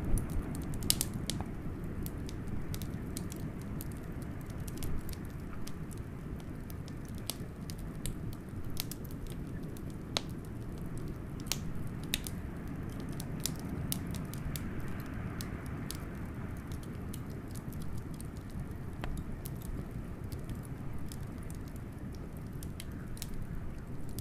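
Wood fire crackling with frequent sharp pops over a steady low rumble of blizzard wind.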